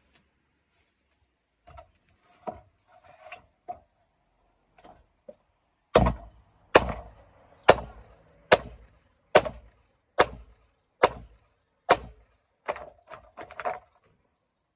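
Firewood being split: light knocks at first, then a run of about eight sharp, evenly spaced blows a little under a second apart, ending in a few quicker, lighter knocks.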